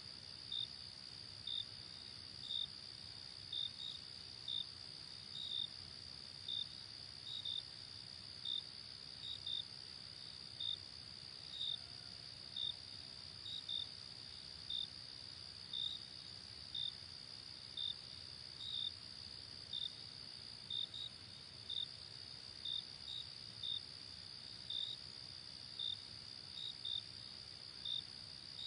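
Night crickets: a steady high trill with a separate insect giving short, slightly lower chirps about once a second, some in quick pairs, over a faint low wash of background noise.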